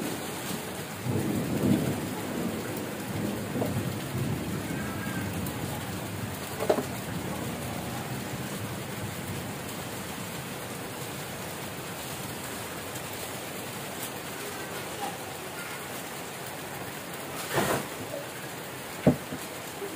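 Heavy rain pouring steadily, with a low rumble of thunder in the first few seconds. A few sharp clicks, the loudest near the end.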